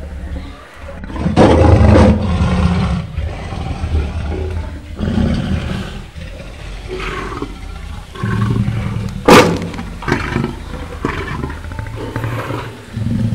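Lion growling over its meat in several low, rumbling bouts, with a sharp knock about nine seconds in.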